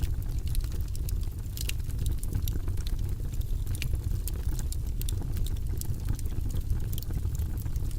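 Logs burning in a fireplace, crackling with frequent sharp pops over a steady low rumble of the flames.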